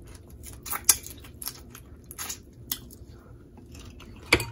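Close-up eating sounds of someone chewing shrimp: wet smacks, squelches and sharp clicks at irregular intervals, the loudest about a second in and just before the end.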